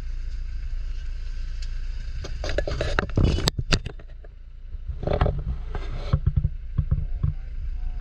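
A vehicle's steady low running rumble, with bouts of rattling and scraping about two and a half seconds in and again around five seconds in.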